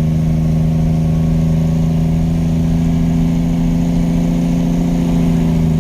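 Kenworth T800 tractor-trailer's diesel engine running under steady load, a loud, even drone that holds one pitch, with a slight change in tone near the end.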